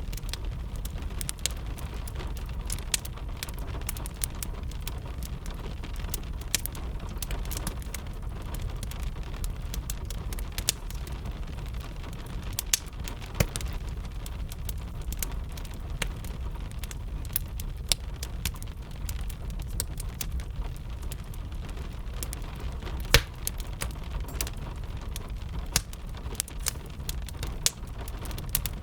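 Wood fire crackling with irregular sharp pops, one louder snap about two-thirds of the way through, over the steady hiss and low rumble of rain.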